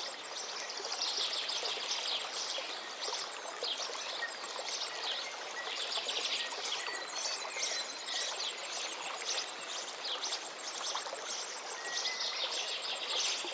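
A chorus of small songbirds chirping and singing over and under one another, over a steady rushing noise.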